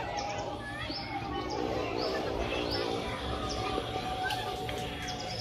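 Small birds chirping, a string of short falling notes repeated every half second or so, over a steady thin tone, with a faint voice or call in the background for about a second near the middle.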